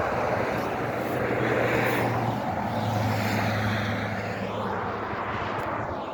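A passing engine droning steadily over a wash of noise, its low hum dropping slightly in pitch a little over two seconds in.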